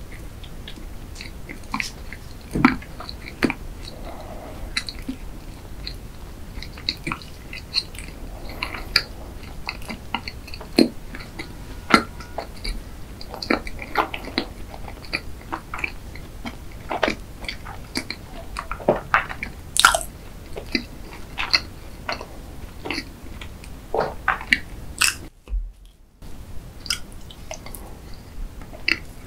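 Close-miked chewing of a dacquoise: soft, irregular mouth clicks and smacks, with a brief break in the sound about 25 seconds in.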